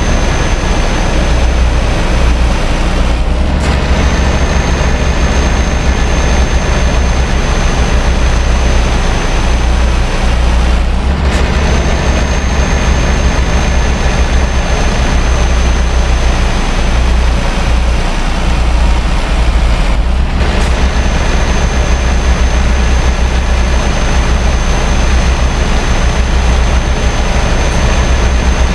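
Scania R560's V8 diesel running steadily under load, pulling about 80 tonnes: a deep, continuous drone with a faint high whine above it that cuts out briefly three times.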